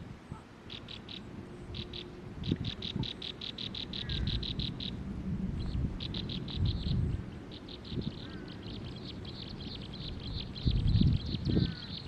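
A songbird calling in fast runs of short, high, evenly spaced notes, several a second, each run lasting a few seconds. Low rumbling noise comes in near the end.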